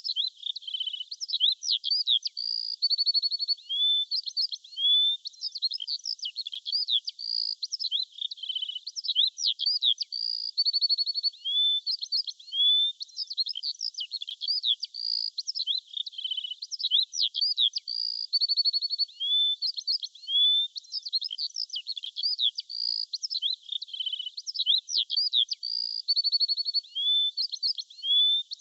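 Songbirds chirping and singing: many short high chirps, whistled slides and quick trills overlapping. The same stretch of song repeats about every eight seconds, so it is a short loop.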